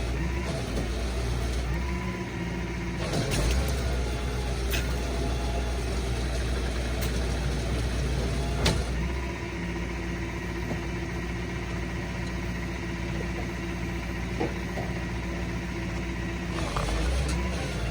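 Tow truck engine running steadily during a winch recovery. Its low hum eases off about two seconds in and again from about nine seconds to near the end. A few sharp clicks or knocks come at about three, five and nine seconds.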